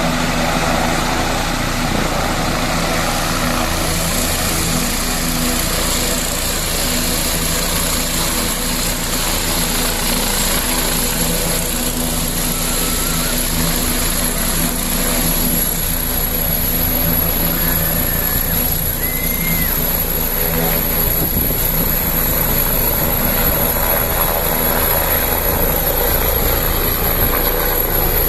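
Helicopter running steadily, a continuous loud drone with a thin, steady high whine over it.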